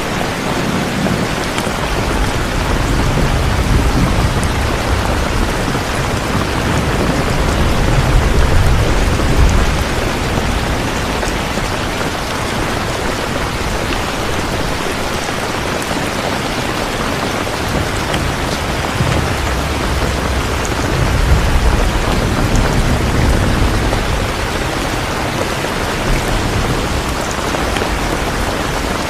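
Steady heavy rain with low thunder rolling in and out, swelling about three times.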